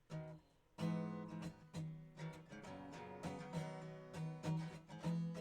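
Acoustic guitar strummed to open a song: one chord, a short pause, then steady rhythmic strumming from about a second in.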